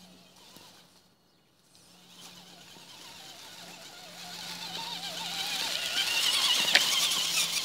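Electric motor and gears of a radio-controlled truck whining, the pitch wavering with the throttle, growing steadily louder over a few seconds as it comes close, with a sharp click near the loudest point before the sound drops away.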